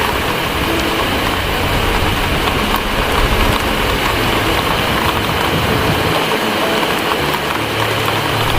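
Steady heavy rain with a low rumble underneath; the rumble drops away about six seconds in and returns near the end.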